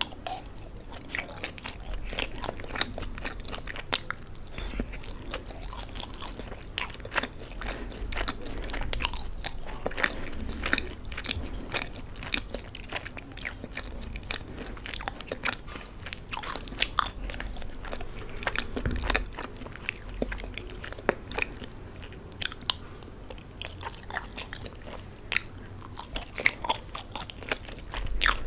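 Close-miked chewing and biting, a person eating macaroni pasta with vegetables, made up of many short, sharp mouth clicks and bites with no pauses longer than a moment.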